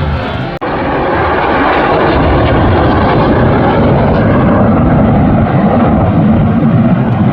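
Loud, steady engine noise of a fixed-wing aircraft, cutting in abruptly about half a second in and holding even.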